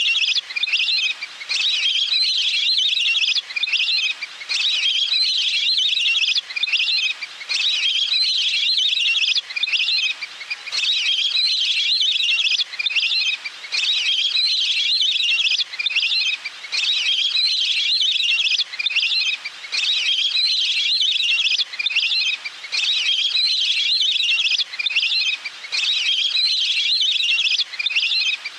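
Recorded waterbird call played as a bird-trapping lure: a high trilling call repeated over and over, about once every two seconds with short breaks between.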